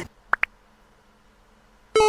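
Two quick, high beeps in succession about a third of a second in, then quiet room tone, with a tone rising in pitch starting right at the end.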